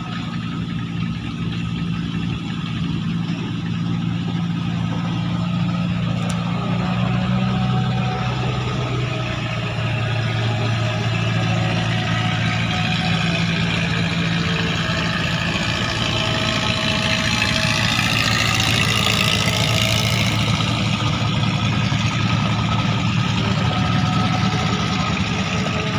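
Klotok river motorboat engine running steadily, with a rushing noise that swells and fades about two-thirds of the way through.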